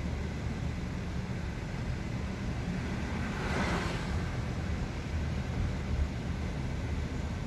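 Car driving, heard from inside: a steady low rumble of engine and road noise. About three and a half seconds in there is a brief whoosh.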